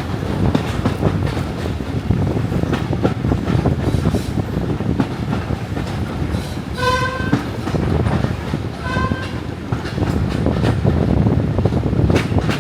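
Diesel-hauled heritage train running, heard from on board: a steady rumble of the carriages with wheels clicking over rail joints, and two short horn toots about seven and nine seconds in.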